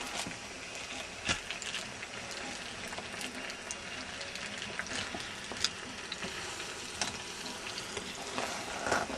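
Hot oil sizzling steadily in a deep fryer, with scattered sharp pops and crackles.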